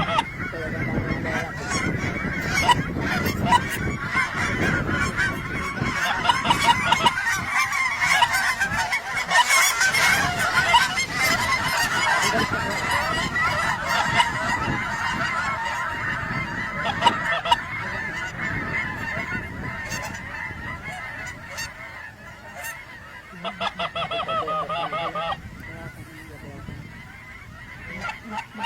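A large flock of geese honking, many overlapping calls at once. The calling thins out after about 20 seconds, with a brief louder cluster of calls a few seconds later.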